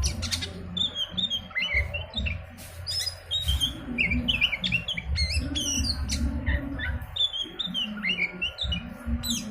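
Oriental magpie-robin (kacer) singing a fast, continuous run of varied whistles and chirps, a lure song played to stir caged birds into singing, over a low steady hum.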